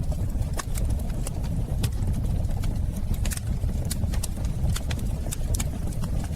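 Fire crackling in a fireplace: a steady low rumble of flames with irregular sharp pops and snaps.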